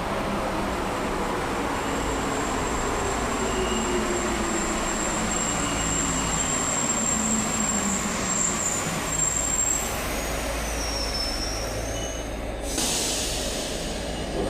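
Inside a rubber-tyred Alstom NS-74 metro car slowing down. The motor whine falls steadily in pitch as the train brakes. Near the end there is a short burst of air hiss from the brakes.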